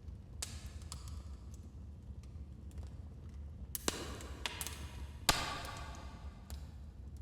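Wood fire crackling in a fireplace: scattered sharp pops and snaps over a low steady rumble of the flames, with two louder cracks about four and five seconds in.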